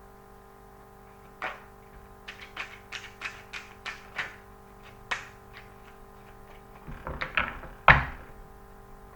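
Tarot cards being handled on a table: a run of short taps and slaps, with a brief cluster near the end that ends in the loudest thump.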